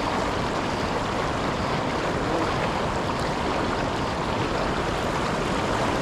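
Steady rush of flowing river water, an even noise that neither rises nor falls.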